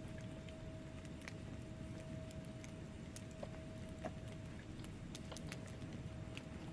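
Wood fire in a fireplace crackling: irregular sharp pops and snaps over a steady low rumble of the burning logs, with a faint steady hum underneath.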